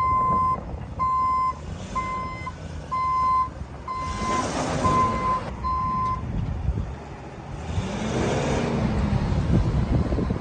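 Dump truck's reverse backup alarm beeping, a steady single-tone beep about once a second, seven times, then stopping. Twice a louder rushing swell rises and falls under it.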